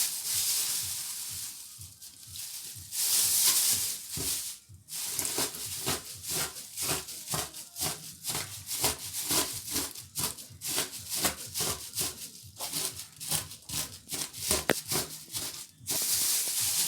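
Quick, rhythmic rubbing and rattling strokes, several a second, of a cake mixture being stirred in a bowl. They start about five seconds in and stop shortly before the end, after a steady hiss at the start.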